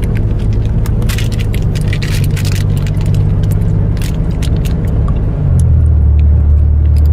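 Truck cabin drone from the engine and road while driving, a steady low hum. A little over five seconds in it drops lower in pitch and grows louder. Scattered small clicks sound in the first half.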